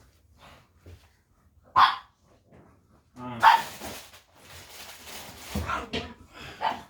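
A dog barking several times, in short separate barks.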